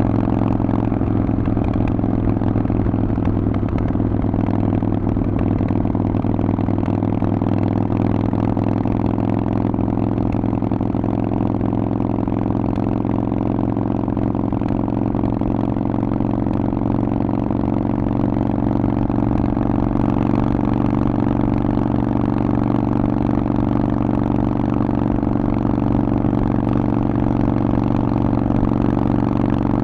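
Harley-Davidson Forty-Eight's air-cooled V-twin running through a Vance & Hines exhaust at a fairly steady engine speed, with only a slight dip and recovery in pitch midway.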